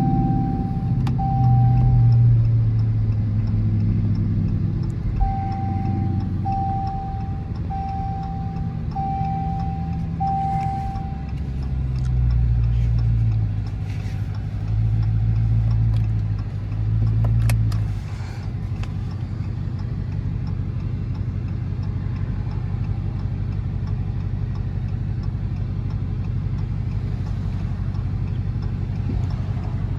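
Dodge Charger R/T's V8 engine running at low revs: its note shifts up and down for the first part, then settles to a steady idle. Over the first ten seconds or so a single-tone beeping chime repeats about once a second.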